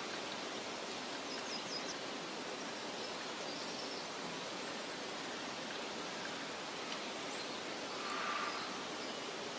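Meadow nature ambience: a steady rustling hiss of soft wind, with a few faint, high bird chirps, including a quick run of four about a second and a half in.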